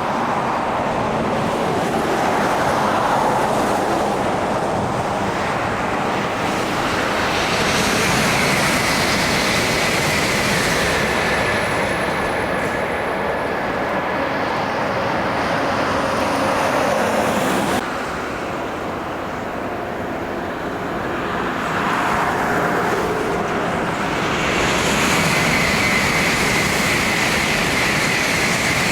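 Sanyo Shinkansen high-speed trains passing at speed: a loud, continuous rushing noise with a steady high whine in places, mixed with road traffic. The sound drops abruptly about eighteen seconds in, then builds again for another pass near the end.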